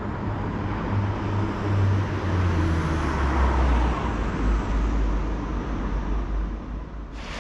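Diesel multiple unit passenger train passing below after coming out of a tunnel, its engines giving a deep drone that drops in pitch about halfway through, over a background hum of road traffic.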